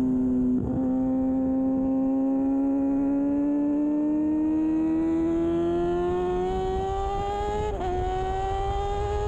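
2013 Kawasaki Ninja 636's inline-four engine pulling hard at race speed, its pitch rising steadily, then dipping briefly at a gear change about eight seconds in before climbing again. Wind rush runs underneath.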